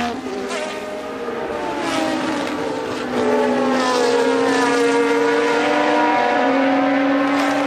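Formula One cars' engines at high revs, the pitch shifting as the cars change speed and pass, with more than one engine heard at once. The sound gets louder about three seconds in.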